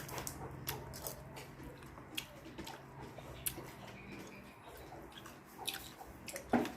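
Eating sounds: chewing with scattered short clicks and smacks.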